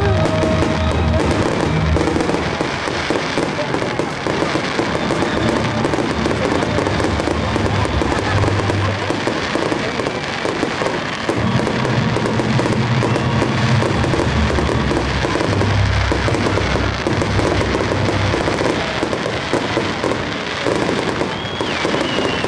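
Fireworks display: continuous dense crackling and popping of bursting aerial shells, with music playing underneath.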